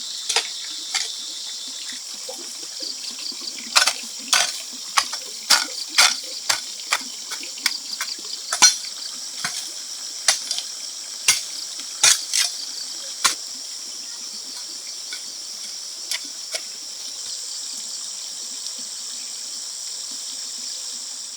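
Steady high-pitched insect chorus of the rainforest. Irregular sharp clicks or knocks sound over it, thick through the first half and sparse after.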